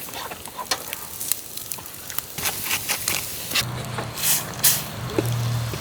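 Food sizzling on a grill over a campfire, a steady hiss with sharp crackles and pops through it. A low steady hum comes in a little past halfway.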